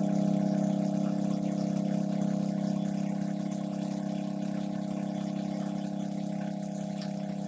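A steady machine hum made of several fixed tones, slowly fading a little.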